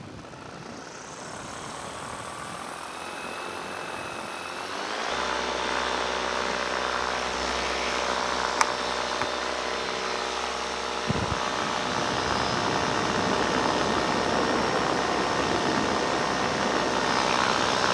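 Paramotor engine and propeller running steadily in flight, with a rush of air. The engine hum comes in plainly about five seconds in and grows gradually louder. There is a brief click and a low thump partway through.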